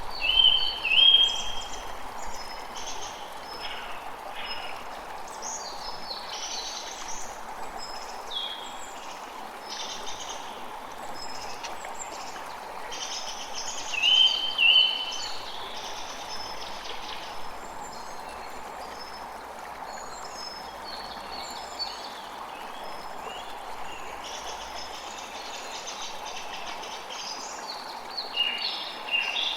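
Steady running water with birds chirping throughout. Louder double chirps come just after the start, about halfway through and again near the end.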